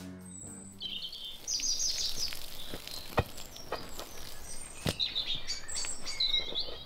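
Small birds chirping in short high trills over a faint outdoor hum, with a few sharp clicks about three, three and a half and five seconds in.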